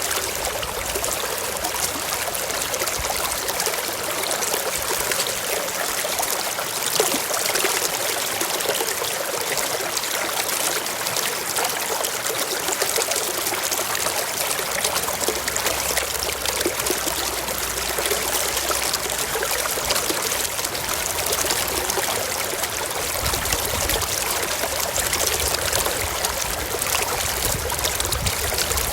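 A small stream running over rocks, a steady mix of trickling and splashing.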